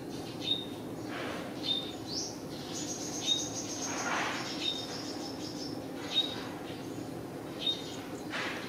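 A bird chirping: six short high chirps evenly spaced about a second and a half apart, with a thinner, drawn-out high call in the middle, over a steady low background hum.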